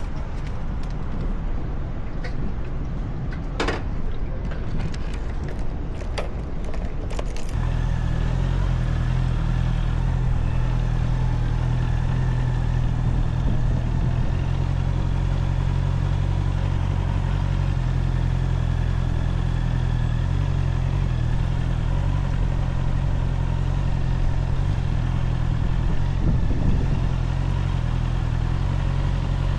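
Honda CBR650R's inline-four engine running, with a few clicks and clatter in the first seconds. About seven seconds in, the engine note steps up to a strong, steady drone.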